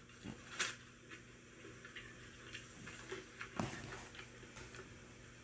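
Faint eating sounds of someone chewing fast food, with scattered small mouth clicks and smacks.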